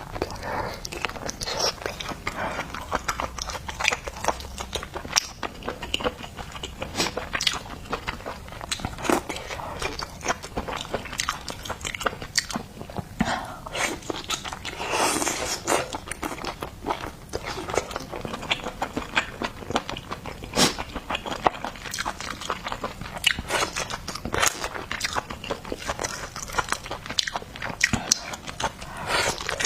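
Close-miked eating of seafood: a continuous run of biting, crunching and wet chewing, with many sharp irregular clicks and smacks.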